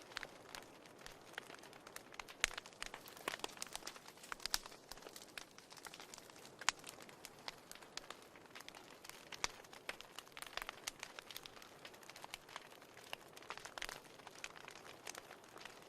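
Wood fire crackling in a fireplace: a soft steady hiss with irregular sharp pops and snaps.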